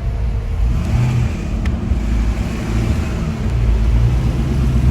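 A motor vehicle's engine running close by, giving a steady low rumble.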